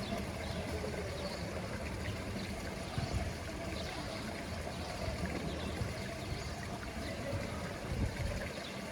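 Steady trickling and running of pool water.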